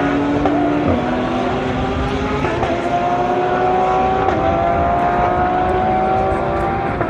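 GT racing car engine running hard at high revs, its pitch climbing steadily as it accelerates, with a quick gear change about a second in.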